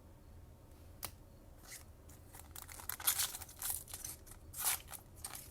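Foil trading-card pack wrapper being opened and crinkled in the hands: a single sharp click about a second in, then an irregular run of crackling tears and crinkles from about two seconds on.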